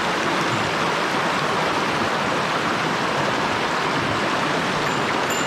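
Mountain stream water rushing over rocks, a steady even splashing.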